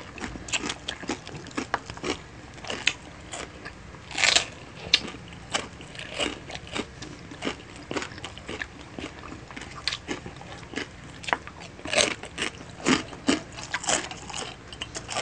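People chewing food: irregular crisp crunches of chicharon (fried pork rinds) being bitten and chewed, with softer wet chewing of sauced chicken feet. A few louder crunches stand out about four seconds in and again near the end.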